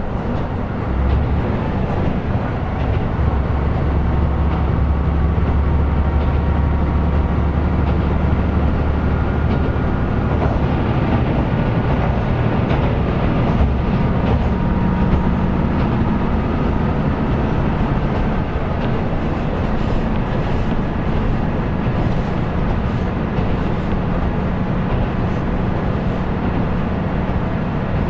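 Running sound of a KiHa 125 diesel railcar under way: a steady engine drone over wheel and rail noise. A deep engine note drops away about ten seconds in, and a higher steady hum takes over a few seconds later.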